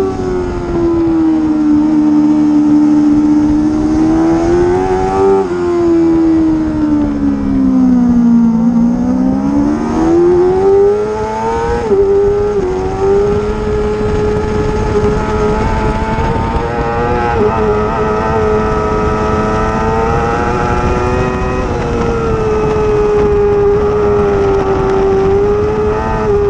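Racing motorcycle engine running hard and continuously. Revs fall in the first couple of seconds, drop lowest about eight seconds in, then climb back and hold high and fairly steady for the rest.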